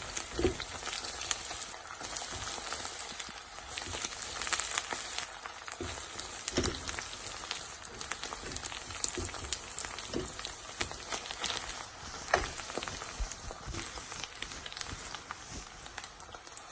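Fried onions and ginger-garlic paste sizzling in hot oil in a pan, a steady hiss, with a few sharp knocks scattered through.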